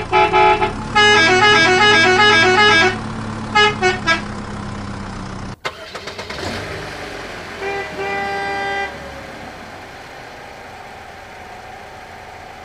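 Vehicle horns honking over a low steady hum: a quick tune of stepping horn notes for about two seconds, a few short toots, then, after a sudden cut, one horn blast of about a second.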